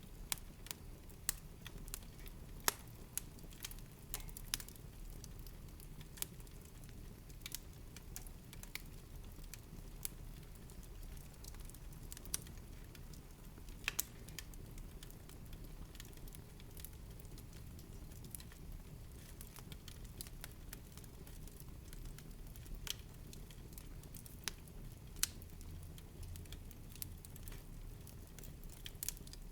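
Wood fire crackling in a fireplace: irregular sharp pops and snaps, a few louder than the rest, over a low steady rumble of the burning fire.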